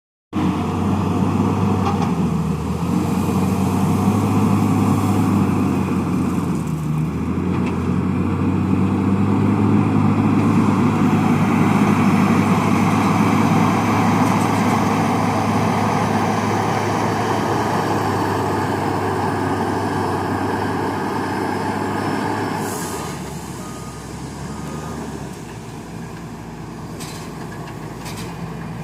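Diesel engine of a JCB loader running hard while working, its pitch shifting as it is revved and loaded. About three-quarters of the way through it drops to a lower, quieter running speed, with a few sharp knocks near the end.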